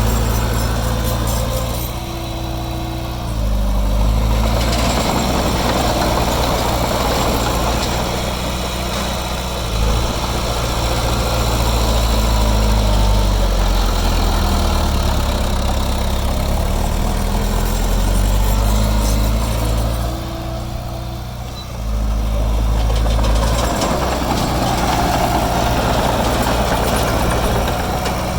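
Heavy diesel engine of earthmoving machinery running steadily. Its pitch shifts up and down as the load changes, and it eases off twice briefly before picking up again.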